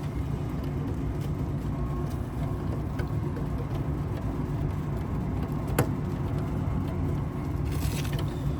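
Steady low mechanical rumble, with a few light clicks and one sharper click about six seconds in.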